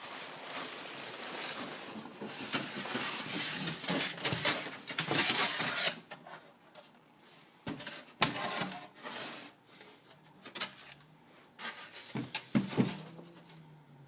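Handling and rummaging noises: about six seconds of rustling, then a string of separate knocks and clicks.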